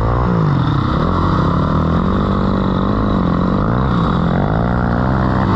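Dirt bike engine riding through sand, its pitch rising and falling again and again as the throttle is opened and eased off.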